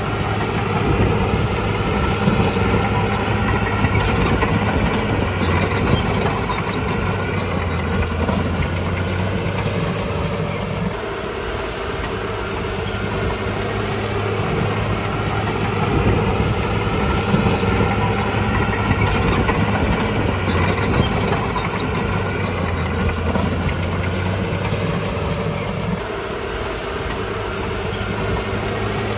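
Crawler bulldozer's diesel engine running steadily, its level swelling and easing as the load changes, with a few sharp metallic clicks.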